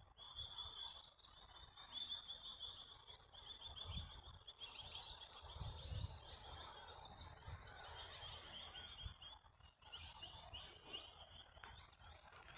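Faint, steady high-pitched chirping chorus from the surrounding bushland, made of quick repeated chirps, with occasional soft low rumbles underneath.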